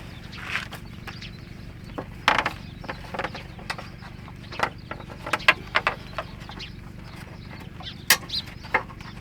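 A series of sharp knocks and clicks at irregular intervals over a steady low hum, with a couple of short high chirps near the end.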